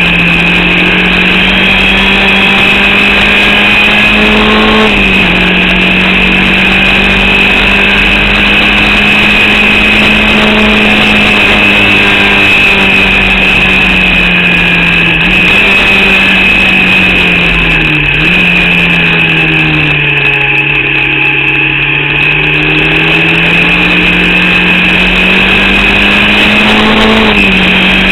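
Onboard sound of a Formula Vauxhall single-seater's four-cylinder 8-valve engine running hard. Its note climbs slowly, drops sharply at gear changes about 5, 15 and 27 seconds in, and sags and recovers near the middle as the car slows and accelerates again. The engine is misfiring and short of revs.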